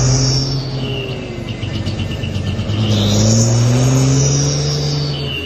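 Mitsubishi Canter dump truck's diesel engine revving, its pitch climbing slowly over several seconds, then dropping away near the end.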